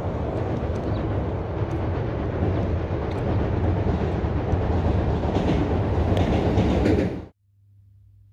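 Freight train passing close by: a loud, steady rumble of the wagons with scattered sharp clicks from the wheels on the rails. It cuts off suddenly about seven seconds in, leaving a faint low hum.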